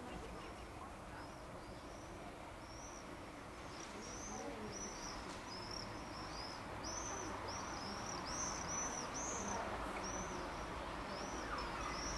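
Small birds chirping: many short, high, arching chirps in quick succession, sparse at first and busier from about a third of the way in, over a steady low background noise that grows slightly louder toward the end.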